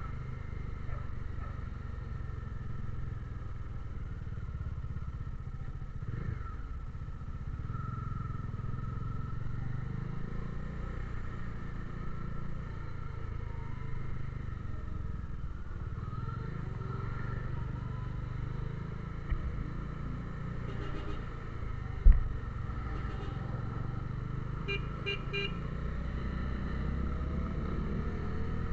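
Steady low rumble of a vehicle on the move, its engine and road noise, with one sharp thump about two-thirds of the way through.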